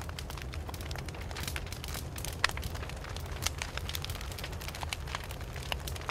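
Wood fire burning: irregular crackles and small pops, one sharper pop about two and a half seconds in, over a steady low rumble of the flames.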